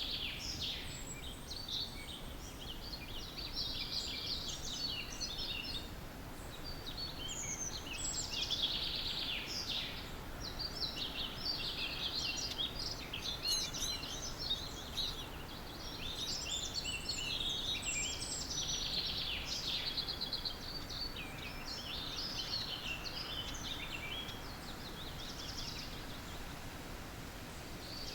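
Several songbirds singing at once in a morning chorus: overlapping trilled and chirping song phrases follow one another without pause, over a faint low background rumble.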